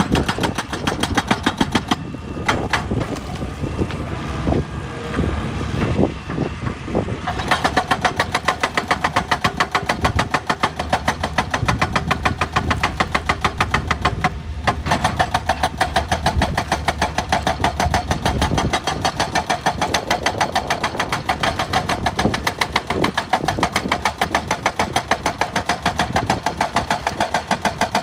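Excavator at work on rock, its engine running. From about seven seconds in there is a rapid, even knocking, several strokes a second.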